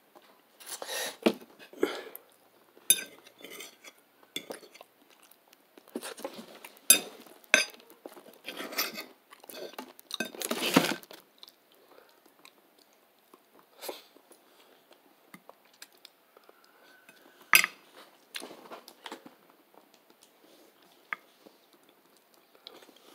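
A person eating close to the microphone: chewing and mouth noises with crinkles and clicks, in dense clusters through the first half, then only scattered clicks.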